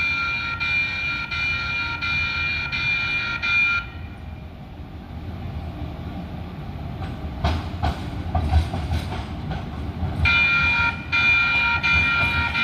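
Sacramento light rail train with an electronic warning bell ringing in a steady, evenly repeating pattern. The bell stops about four seconds in and starts again near ten seconds. In the gap a low rumble and some rail clatter come through.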